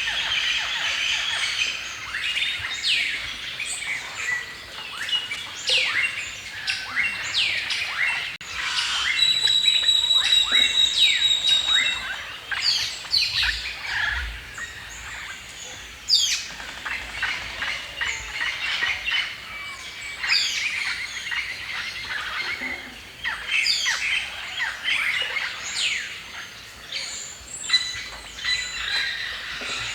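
Several songbirds chirping and singing together, a dense run of short, sharp, down-sweeping calls. About nine seconds in, one bird holds a high, rapidly repeated note for around three seconds.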